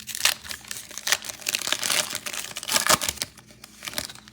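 Plastic wrapper of a trading card pack being torn open and crinkled by hand, in irregular crackling rustles that die down after about three seconds.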